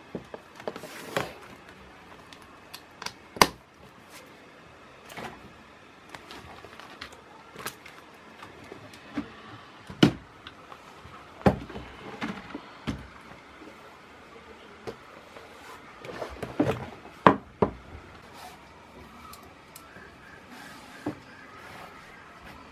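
Irregular knocks and clicks of small objects being handled and set down, sparse with quiet gaps between, the sharpest about three, ten, eleven and seventeen seconds in.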